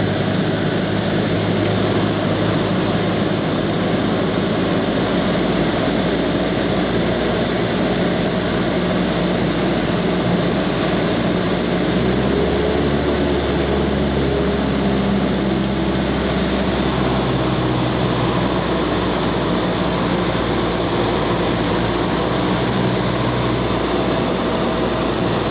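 Cessna 172's piston engine and propeller droning steadily, its pitch shifting about twelve seconds in.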